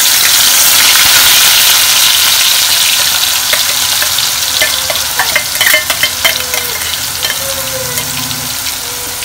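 Ground onion paste sizzling loudly as it drops into hot oil in a metal kadai, the hiss easing off over several seconds. From about halfway through, a metal spoon clinks and scrapes against the steel bowl and the pan as more paste is added.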